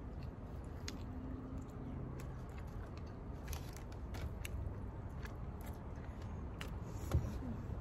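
Close-up eating sounds: biting and chewing chicken feet, with many small irregular clicks and crunches. A single louder thump comes about seven seconds in.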